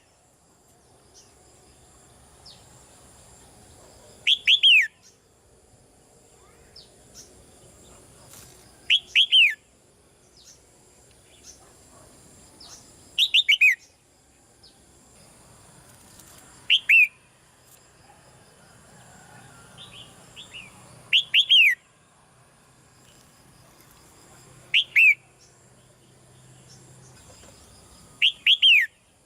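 Red-whiskered bulbul calling: a loud, quick phrase of two or three notes falling in pitch, repeated about every four seconds, seven times in all, with faint soft chirps in between.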